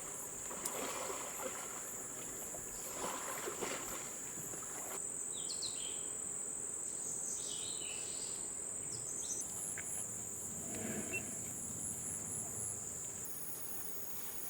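Jungle insects droning in a steady high-pitched whine, which jumps in pitch and strength a few times, with a few short bird chirps in the middle.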